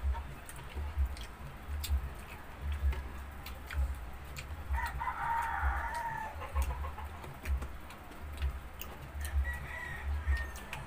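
Chewing and mouth sounds of people eating crispy fried pork and rice by hand: a low thud about once a second and many small clicks. A short animal call comes about five seconds in, and a fainter one near the end.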